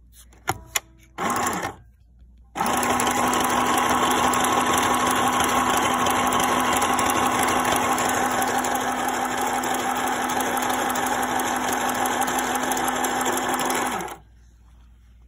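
New Home Janome mini sewing machine: two clicks and a brief run of the motor, then the machine sews steadily for about eleven seconds with a constant motor hum, stopping sharply near the end.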